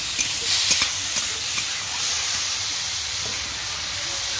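Chopped tomatoes and onions hissing and sizzling in hot oil in a kadai, throwing off steam as their juice hits the oil. A few sharp clicks of a metal spatula against the pan come in the first second.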